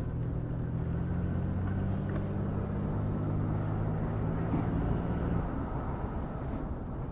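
A vehicle running while driving: a steady low engine drone over road rumble. The drone drops away suddenly about five and a half seconds in while the rumble goes on.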